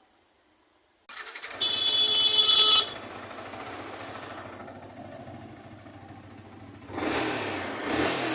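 Yamaha R15 M's single-cylinder engine starting about a second in, with a loud high-pitched tone for about a second just after it catches. It then idles steadily and is revved up twice near the end.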